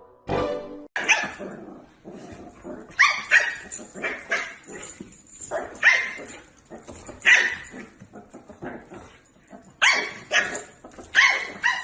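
A dog barking over and over in short barks, some in quick pairs, at irregular intervals.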